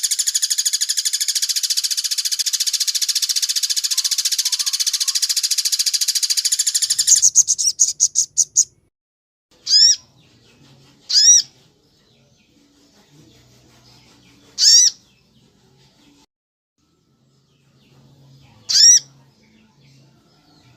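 Recorded songbird calls from a bird-training track: a very rapid, dense trill runs for about seven seconds, breaks into a few slower notes and stops. It is followed by four short single calls spaced a few seconds apart, each a quick bending note.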